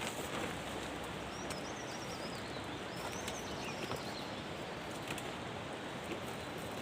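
Steady rushing outdoor background noise, with a small bird chirping twice, about a second in and again around three seconds in.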